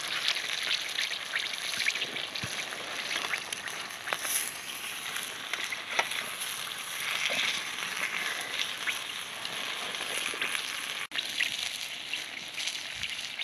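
Chicken frying in a pan over a campfire: a steady sizzle with scattered crackles and pops.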